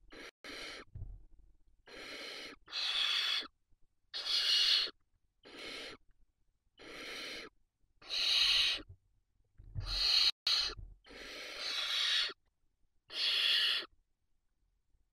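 Barn owl chicks giving their hissing begging calls: about a dozen rasping hisses, each under a second long, following one another every second or so.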